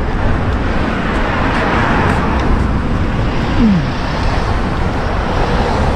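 Steady wind rushing and buffeting over the microphone, mixed with road traffic noise, while riding an electric bicycle uphill. A short falling tone sounds about three and a half seconds in.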